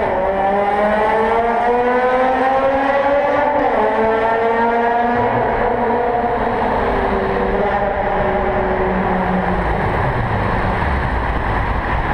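Mazda rotary engine running hard under load. Its note climbs gently, drops about three and a half seconds in, as at a gear change, then holds fairly steady.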